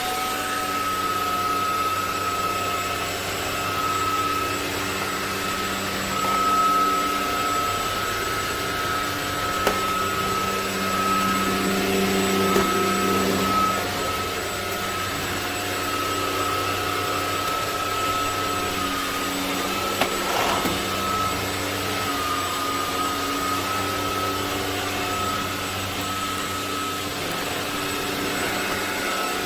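Ultenic U16 Flex cordless stick vacuum running steadily with a high, even motor whine, while lower tones come and go beneath it.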